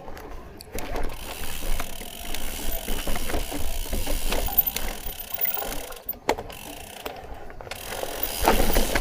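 Footsteps on a rocky mountain trail: irregular scuffs and sharp clicks of shoes on stone and gravel.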